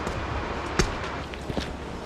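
Footsteps on a bush walking track, a few scattered steps with the clearest about a second in, over a steady rushing background.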